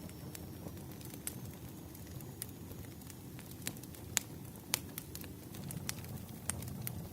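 Burning firewood crackling: irregular sharp pops and snaps over a low, steady rumble of the fire, with two louder pops a little past halfway.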